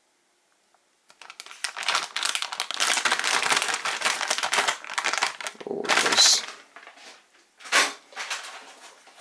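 Packaging crinkling and rustling as it is handled, starting about a second in and running for several seconds, followed by a couple of short, sharp rustles.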